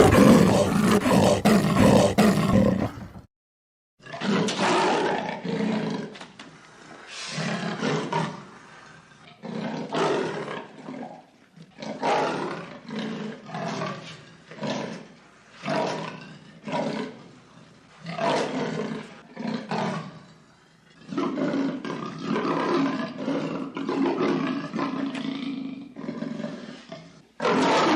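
Leopard roaring: a loud rough roar that cuts off about three seconds in, then a long series of rasping calls, one every second or so.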